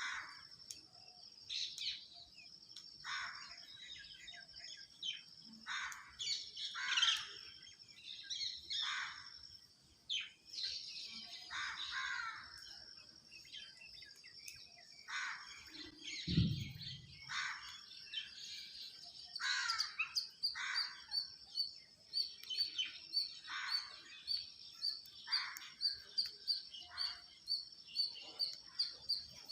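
Birds chirping and calling: repeated short calls that sweep down in pitch. From about two-thirds of the way in, a fast run of high chirps comes about three a second. A single low thud about halfway through.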